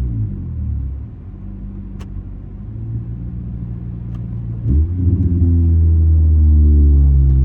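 2004 Honda Accord's straight-piped 2.4-litre K24 four-cylinder: the revs drop off and the exhaust goes quieter at low revs, then about five seconds in the throttle opens and it gets sharply louder, the pitch rising, before settling into a loud steady drone.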